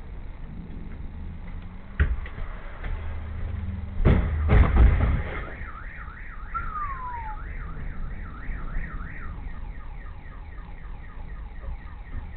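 A sharp knock, then about four seconds in a loud collision, several heavy impacts close together. Right after, a car alarm warbles up and down about three to four times a second and fades toward the end.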